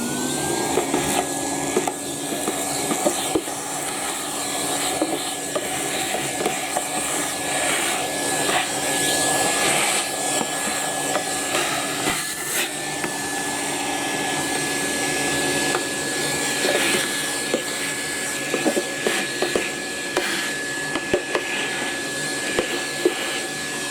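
Numatic Hetty tub vacuum cleaner motor winding up to speed, then running with a steady high whine and rushing suction as it picks up spilled mess from the carpet, with scattered small clicks. It winds down right at the end as it is switched off.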